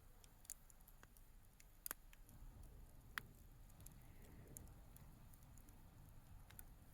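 Wood bonfire crackling faintly, with a few scattered sharp pops; the loudest comes about three seconds in.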